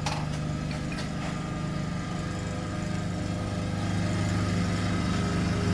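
Steady low machine hum with a faint steady whine above it.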